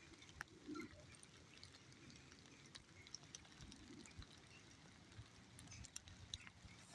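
Faint light rain: a soft hiss with scattered small drip ticks.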